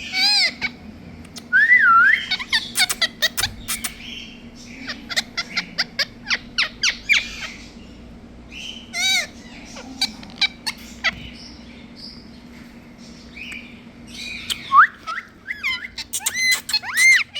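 Parrots calling: sharp squawks, whistled gliding notes and quick chirps, in busy runs over the first several seconds and again near the end, with sparser calls in between.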